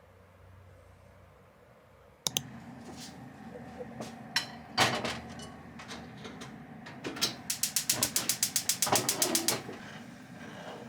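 Close clicks and knocks of things being handled, starting with a sharp click about two seconds in, then a fast, even run of about ten clicks a second lasting about two seconds near the end.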